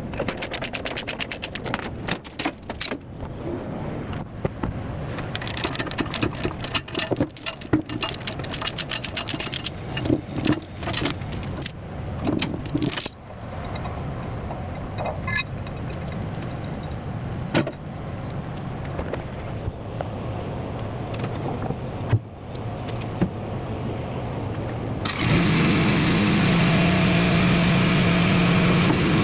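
Tie-down chains and binders clanking and rattling as the load is unchained, thinning to scattered clinks. About 25 seconds in, a large diesel engine starts and settles into a steady run, most likely the Cat 730 dump truck's engine being fired up for unloading.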